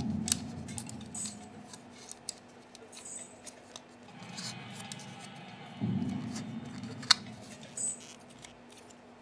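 Small plastic parts clicking and being handled, with scattered light snaps; the sharpest come just after the start and about seven seconds in.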